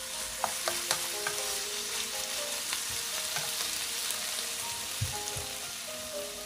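Pork strips, green pepper and onion sizzling in a hot frying pan as they are stir-fried: a steady sizzle, with the wooden spatula and spoon clicking and scraping against the pan now and then.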